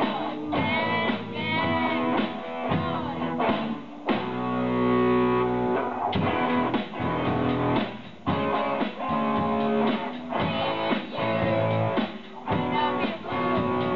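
Live rock band playing a song on electric guitar with bass and drums, with a long held chord about four seconds in.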